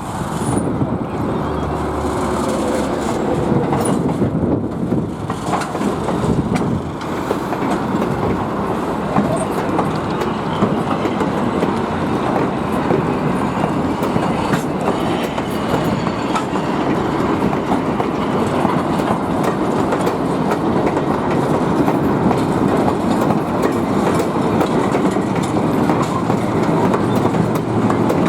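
An excursion train of open-air passenger cars and a caboose, pushed by an RS-1 diesel locomotive, rolls steadily past. Its wheels clatter over the rail joints with a continuous rumble.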